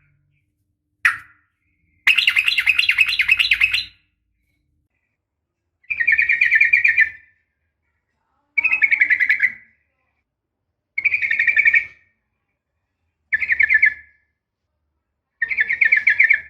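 Yellow-vented bulbul (trucukan) calling in rapid bubbling trills: one short note about a second in, a longer trill of about two seconds, then five shorter trilled phrases of about a second each at even spacing. These are the calls of a female calling a male, used as a lure to set a caged male singing.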